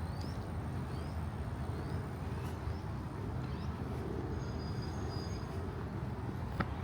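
Steady low rumble of city traffic, with short rising bird chirps over it and a brief high whistled bird call about four seconds in.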